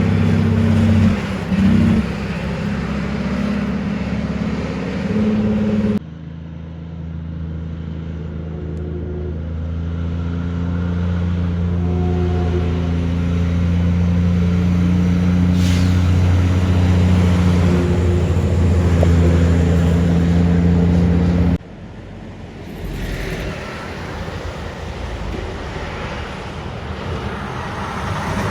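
Kenworth cabover trucks' diesel engines running, in three separate clips with abrupt cuts about 6 seconds in and near 22 seconds. The middle clip holds a steady engine note that grows slowly louder.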